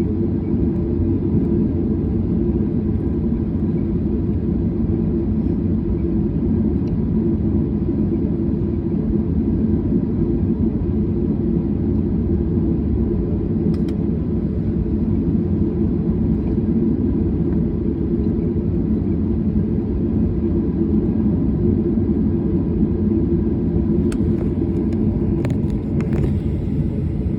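Steady low drone inside a jet airliner's cabin, from engines and airflow, holding level throughout. A few faint clicks near the end.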